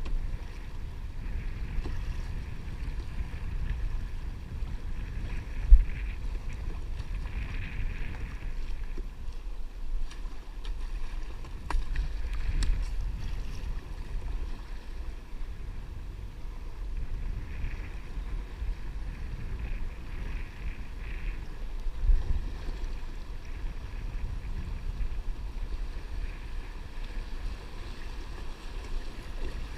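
Wind buffeting the microphone with a steady low rumble, over faint water noise, and two sharp thumps, about six seconds in and again near twenty-two seconds.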